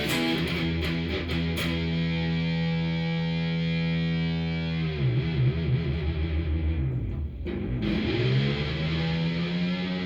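Cort S series electric guitar played through a Fender amplifier. A held chord rings, then the pitch wobbles and dips up and down for a few seconds, and a sustained chord rings again near the end.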